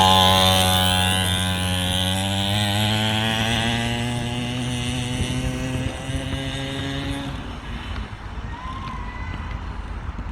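Engine of a DRX 50cc kids' dirt bike running hard as the bike pulls away, its note rising a little and then fading steadily into the distance until it is gone about seven seconds in, leaving only a faint rush of background noise.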